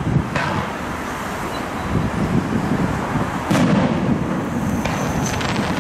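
Aerial firework shells bursting: a sharp bang about half a second in and a louder one about three and a half seconds in, then a quick run of crackles near the end, over a steady low traffic rumble.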